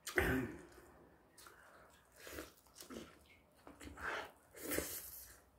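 Close mouth sounds of a person eating: short bursts of chewing and lip-smacking, with a sharper, loudest noise right at the start.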